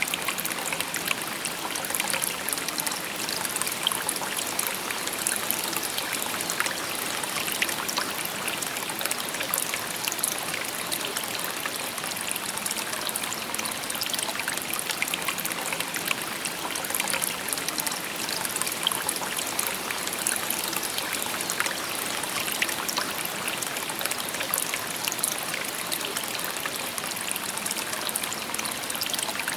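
Shallow river babbling and trickling over stones, a steady rush of water with many small splashes.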